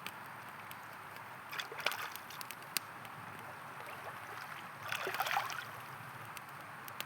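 River flowing steadily, with a campfire crackling and popping in sharp clicks over it and two louder bursts of sound about two and five seconds in.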